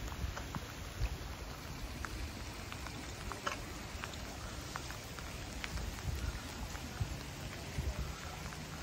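Steady rain falling, with single drops ticking close by at irregular moments.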